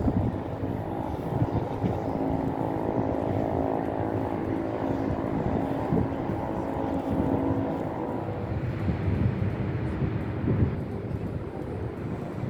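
A motor vehicle engine drones steadily under a bed of traffic noise. Its even tone fades after about eight seconds, leaving a rougher traffic rumble.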